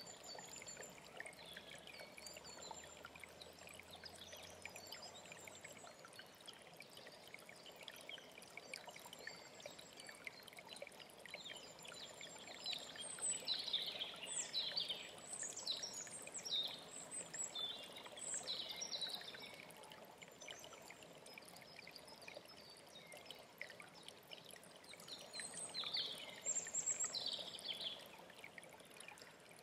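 An alpine stream running steadily, with a songbird singing over it: a few faint high trills, then a louder run of quick falling notes lasting several seconds about halfway through, and a shorter run near the end.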